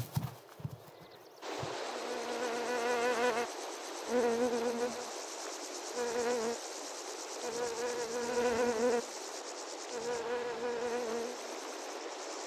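A fly buzzing in five separate passes, each a wavering hum lasting about half a second to a second and a half. Under it runs a steady, high-pitched chorus of crickets, which starts about a second and a half in.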